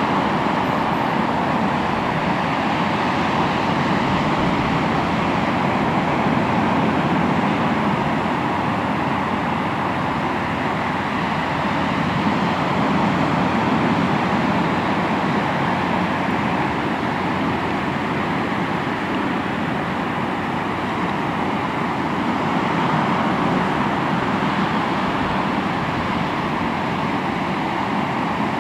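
Sea waves washing onto the shore, a continuous rushing that swells and eases gently every several seconds.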